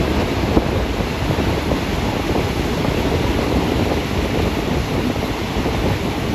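Steady rush of wind buffeting the microphone held out of the window of a moving passenger train, over the train's running noise on the track.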